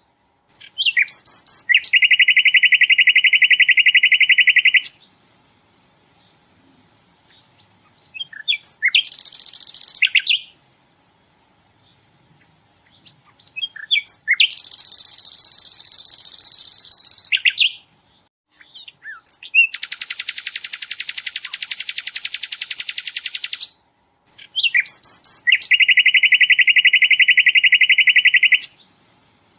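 Sikatan londo flycatcher singing its rapid 'tembakan' bursts: five loud stretches of very fast repeated notes, each a few seconds long, some lower-pitched and some higher, with short pauses between them broken by a few quick chirps.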